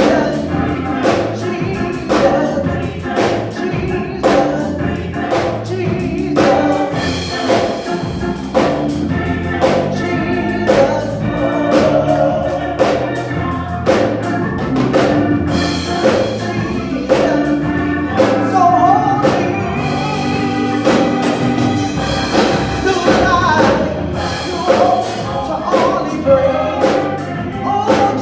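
Church choir singing a gospel song with band accompaniment and a steady drum beat.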